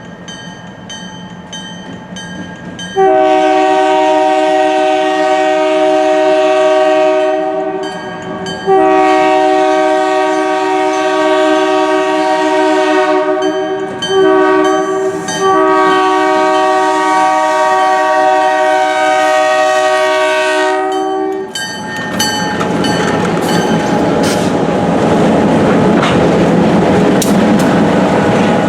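GMD GP40-2LW diesel locomotive's horn sounding the grade-crossing signal, long, long, short, long, over its ringing bell. Then the train rolls by with wheel clatter and clicks over the rail joints.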